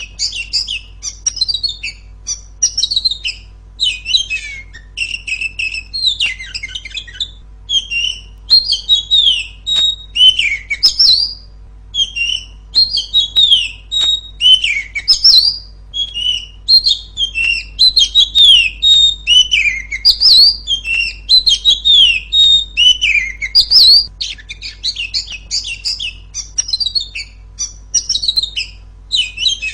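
Female oriental magpie-robin singing loudly: a continuous run of quick chirps and short falling whistles.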